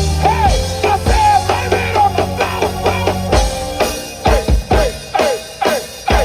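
Live band music: a drum kit with a bass line and a melodic lead that bends in pitch. About three and a half seconds in the bass drops out, leaving sharp drum hits at about four a second under the lead.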